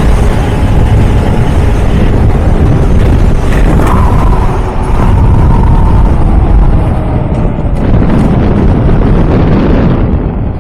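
Motorcycle riding at speed: heavy wind buffeting on the microphone over engine noise, with an engine tone that falls in pitch around the middle as the bike slows.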